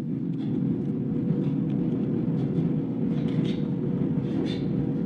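A steady low mechanical hum and rumble, with a faint steady tone above it and a few light ticks.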